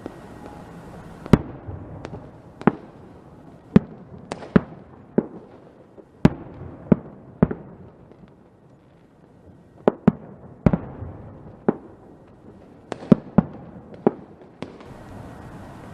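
Fireworks going off: sharp bangs at irregular intervals over a steady hiss, with a brief lull about eight seconds in.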